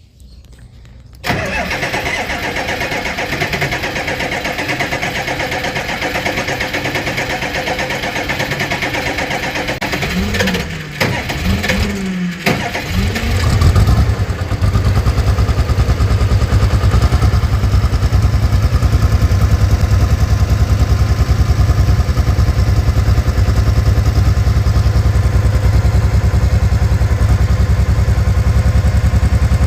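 Oliver 1655 tractor engine on a cold start: the starter cranks for several seconds, the engine catches about ten seconds in and stumbles with its speed rising and falling, then settles into a steady, even idle.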